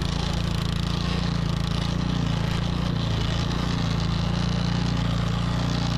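Troy-Bilt snowblower's gas engine running steadily.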